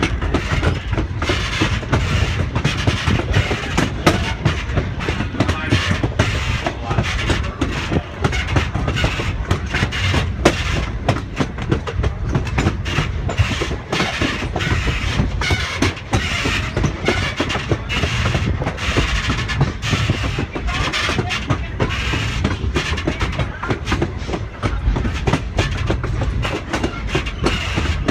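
Railroad passenger car rolling along the track: a steady rumble of wheels on rail with a constant, irregular clatter of clicks.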